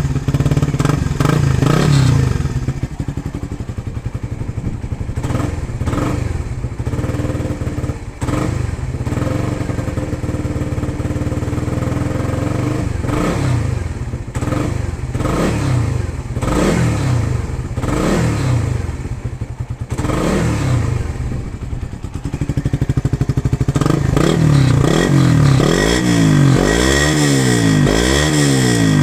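Suzuki Satria FU 150 injection's single-cylinder four-stroke engine revved repeatedly through a stock Satria FU Euro SCD exhaust on a racing header. The revs rise and fall in a series of throttle blips, running clean without sputtering, then turn into quick back-to-back revs over the last few seconds.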